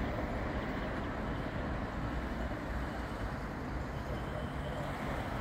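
Tail end of a long intermodal freight train rolling away around a curve: a steady low rumble of steel wheels on the rails.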